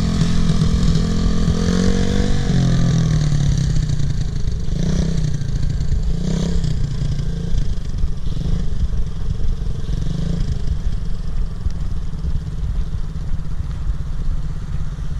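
Motorcycle engine running in first gear, its pitch rising and falling in the first few seconds and then settling into a steady low rumble.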